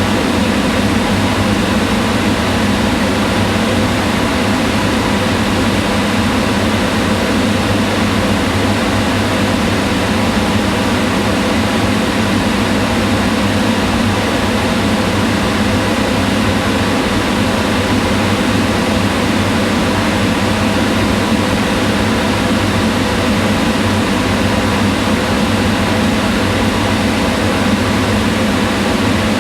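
Kitchen range hood exhaust fan running steadily, a constant whooshing airflow with a low hum.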